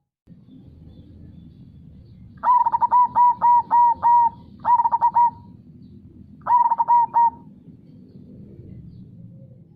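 Zebra dove (perkutut) cooing in three bursts of quick, staccato coo notes: a run of about six, then two shorter runs of three or four. Under them runs a faint, steady murmur of river water.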